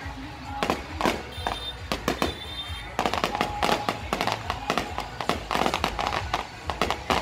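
Fireworks display: aerial shells bursting in a rapid, irregular string of bangs, turning into denser crackling about three seconds in.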